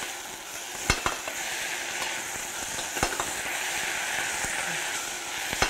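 Moringa flowers with onion and tomato sizzling steadily in hot oil in a stainless steel pot while being stirred with a metal spoon, which knocks against the pot three times.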